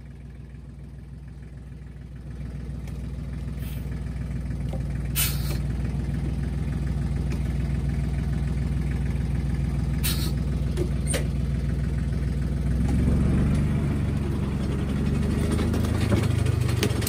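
A vehicle engine running, growing steadily louder and working harder, its pitch rising in the last few seconds. Two short hisses cut in about five and ten seconds in.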